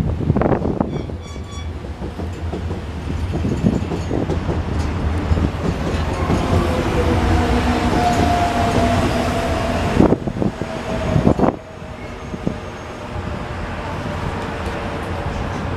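Electric subway train running along the platform: a steady low rumble with a faint, slowly falling whine in the middle, and a few sharp wheel clacks over rail joints about ten and eleven seconds in.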